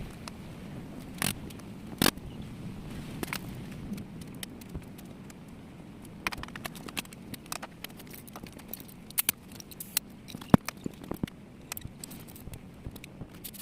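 Bicycle repair work: scattered clicks, clinks and knocks of tools and bike parts being handled. Louder knocks come about a second in, at two seconds, and around nine and ten seconds, with denser small ticks in the second half. A steady low background noise runs underneath.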